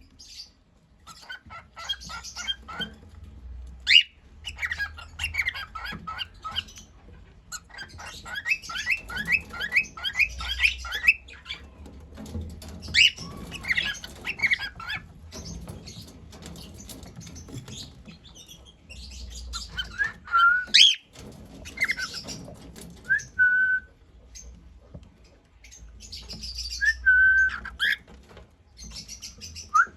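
Cockatiel chirping in quick runs of short notes, with a few held whistles in the second half.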